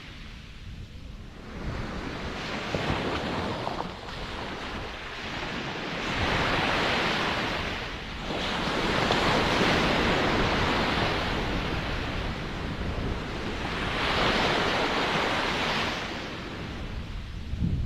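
Ocean waves breaking and washing on a shore in slow surges, several swells rising and falling over the stretch, with the loudest wash in the middle; some wind on the microphone.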